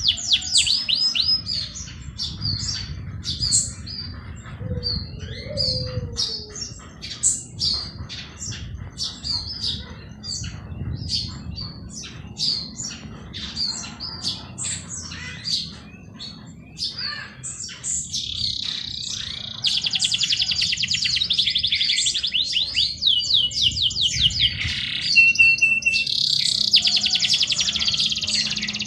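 Several songbirds chirping and singing, with many short high chirps overlapping. About two thirds of the way in, a fast, dense trilling song takes over and runs almost without a break, louder than the chirps before it.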